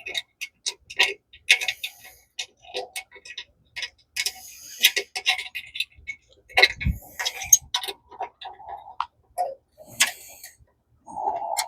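Irregular metallic clicks, clinks and knocks of a condenser fan motor and its top panel being handled and fitted back onto the outdoor unit. There is a heavier thump about seven seconds in and a short scrape near the end.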